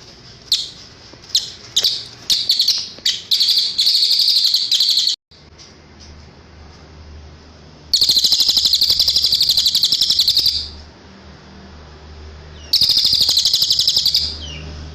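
Cililin songbird singing high-pitched: a string of short notes speeding up into a trill that cuts off abruptly, then two long, rapid, rattling trills with short pauses between them.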